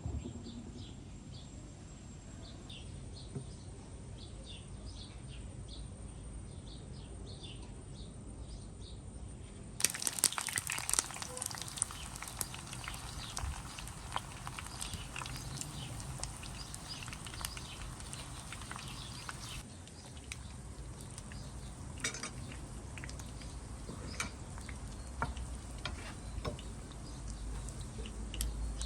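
Short bird chirps over quiet outdoor ambience, then about ten seconds in, an abrupt change to a steady crackling hiss with many sharp pops, like food sizzling in hot oil. It eases a little about halfway through and goes on.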